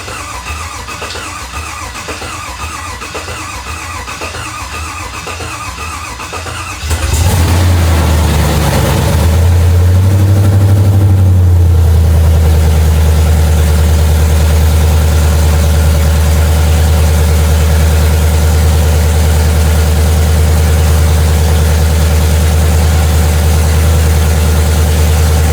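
Freshly rebuilt Chevrolet 5.3 LT V8 being cranked on the starter for about seven seconds while the mechanical fuel pump builds pressure. It then catches and runs, the revs rising and falling for a few seconds before settling into a steady idle.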